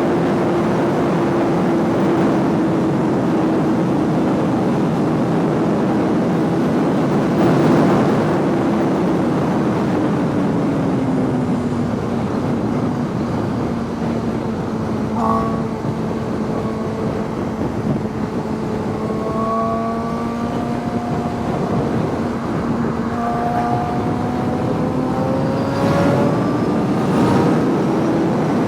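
Suzuki GSX-R sportbike's inline-four engine running under way, with heavy wind rush. The engine note drops about ten seconds in, then climbs slowly in steps through the second half.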